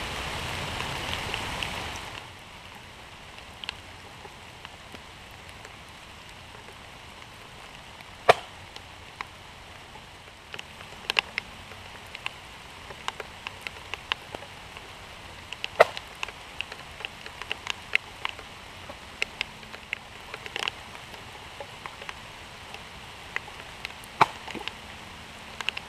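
Steady rain: an even hiss, louder for the first two seconds, with many sharp, irregular ticks of drops landing close by. A handful of louder sharp cracks stand out among them.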